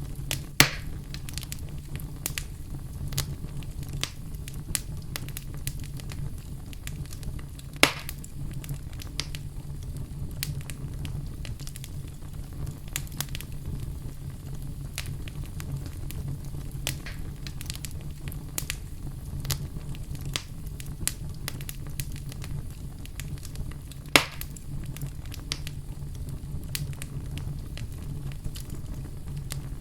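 Wood fire burning in a fireplace, a steady low rumble with constant small crackles. Three loud sharp pops stand out: one just after the start, one about eight seconds in, and one about twenty-four seconds in.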